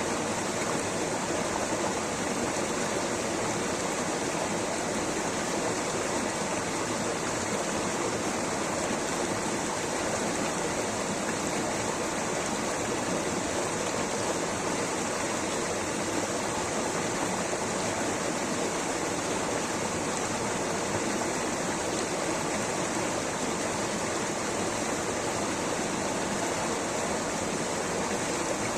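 Rushing water, a steady unbroken rush with no breaks or separate splashes.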